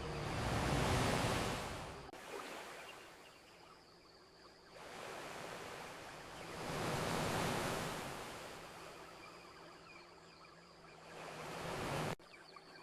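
Ocean surf washing onto a shore in slow swells: one loudest about a second in, another around seven seconds, and a third building near the end that cuts off abruptly.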